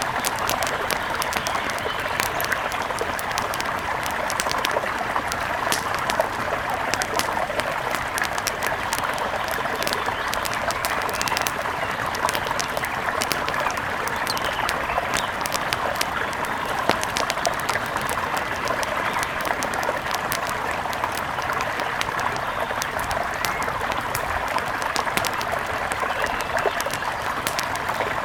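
Mountain river flowing: a steady, even rush of water, with many small sharp ticks scattered through it.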